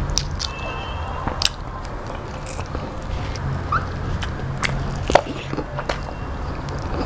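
Close-up mouth sounds of a person chewing a mouthful of rice and vegetable curry, with wet clicks and smacks a few times. The loudest smack comes about five seconds in.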